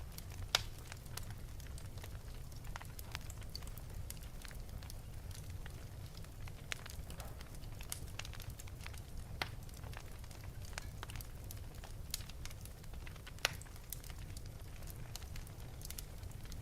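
Wood fire burning in an open fireplace, crackling with irregular sharp pops and snaps, the loudest about half a second in and again near the end, over a steady low rumble.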